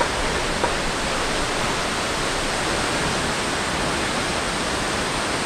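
Steady rushing of a large waterfall in monsoon flow, an even, unbroken wash of noise.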